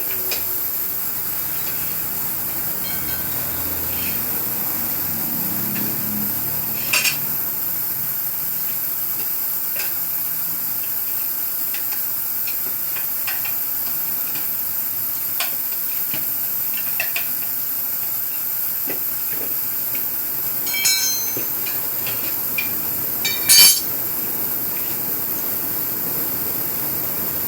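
Steady hiss with a few sharp metallic knocks and clinks from tools on a motorcycle wheel, the loudest near the end.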